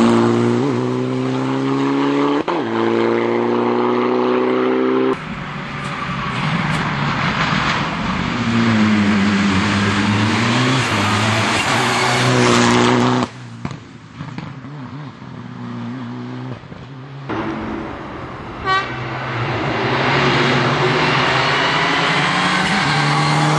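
Mitsubishi Lancer Evolution IX rally car's turbocharged four-cylinder engine at full throttle, revs climbing and dropping sharply at each gear change. About thirteen seconds in it lifts off and goes quieter for a few seconds, with a short rattle of pops, then pulls hard through the gears again.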